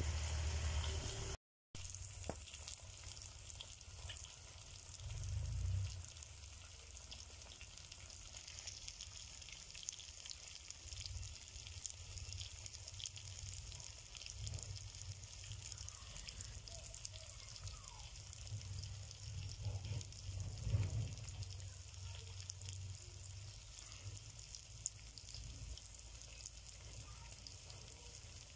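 Chicken masala sizzling and crackling in an iron kadai over a wood fire, with a low rumble swelling briefly about five seconds in and again about twenty seconds in.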